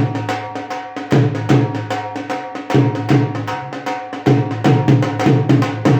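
Dhol played solo in a fast, steady rhythm, with deep bass-head strokes accenting the pattern under quick sharp stick strokes.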